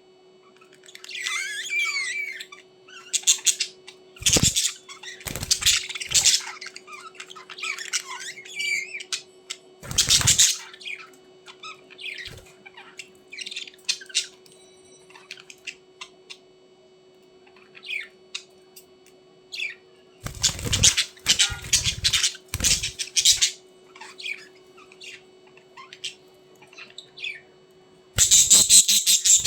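Budgerigars chirping and squawking in scattered bursts, with several short loud bouts of wing flapping, over a steady low hum.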